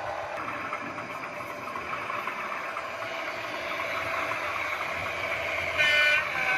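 Sound-fitted model diesel locomotive's engine running steadily through its small onboard speaker, with a short horn blast near the end.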